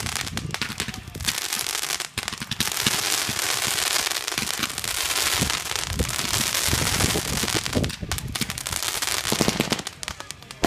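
Consumer fireworks going off: separate launch pops at first, then a dense, continuous crackling for several seconds, thinning to scattered pops near the end.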